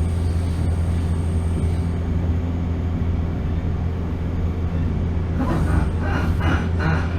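Running sound inside a JR Kyushu 415 series 1500-subseries electric multiple unit: a steady low rumble and hum of wheels on rail and traction motors. A thin high tone fades out about two seconds in.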